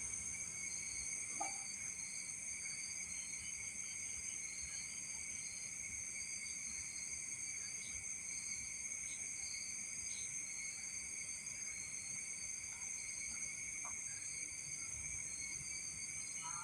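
Chorus of night insects, crickets among them: several steady, high chirring tones layered together, one of them pulsing in an even beat.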